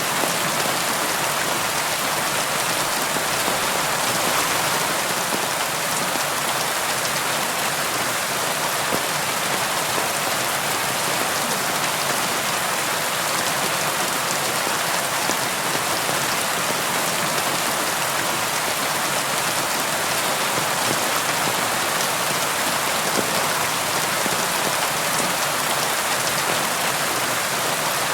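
Steady rain falling on a surface, a dense even hiss of drops with no change in intensity.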